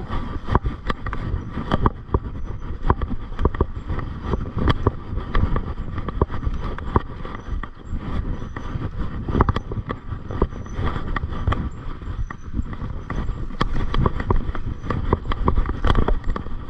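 Mountain bike jolting over a rough off-road trail: a steady low rumble with frequent, irregular knocks and rattles.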